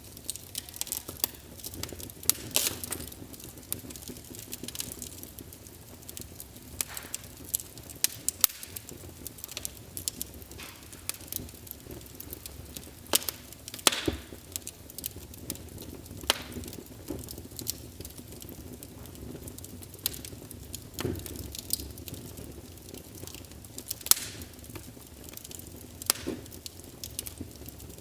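Recorded crackling wood fire played back through a wireless fireplace sound emulator speaker: irregular sharp pops and snaps over a low steady hiss.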